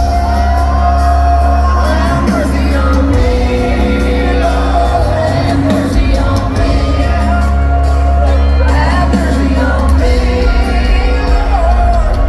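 A live country-rock band playing loud, bass-heavy music, with a singer and long held notes, and shouts and whoops from the crowd.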